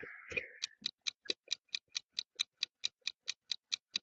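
Clock-style ticking sound effect, a quiz countdown timer, with even ticks at about four or five a second after a short soft swish at the start.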